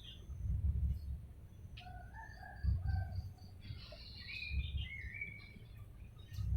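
Chickens and other birds calling in short, chirping calls over a low rumble that comes and goes every second or so.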